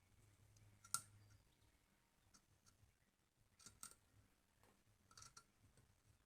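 Faint scattered clicks and taps, a sharp one about a second in and small clusters of them later, over a low hum that stops early.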